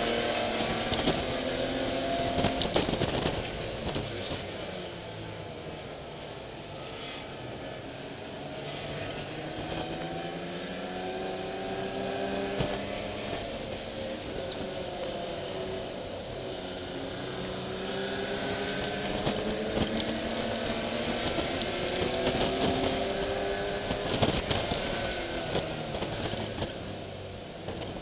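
A racing BMW E30 325iS's M20 straight-six engine pulling hard on track. Its revs climb slowly and then drop sharply several times as it accelerates, lifts and shifts.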